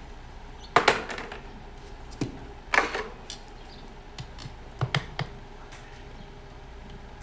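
Sharp knocks and clicks from a farrier's tools working on a horseshoe: a few irregular strikes, the loudest about a second and about three seconds in, with lighter ones around two and five seconds.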